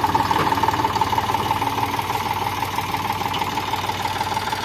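Eicher 485 tractor's diesel engine running steadily.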